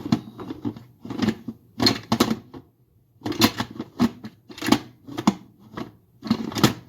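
A cooking utensil stirring and scraping food in a pot, clattering against the pot in irregular bursts.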